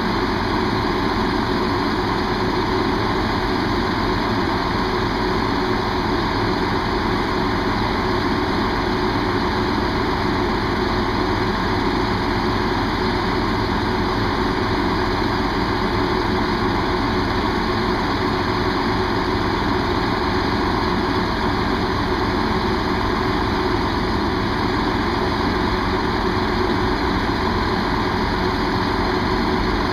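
Diesel train engine idling steadily, with a constant hum and no change in speed.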